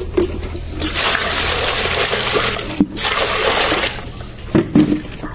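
Water gushing in two spells, about two seconds and then one second long, with a brief break between them, followed by a few short knocks near the end.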